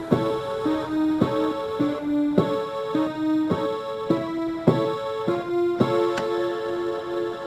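Instrumental keyboard music: a piano-like keyboard strikes a new note or chord about twice a second in a steady, repeating pattern.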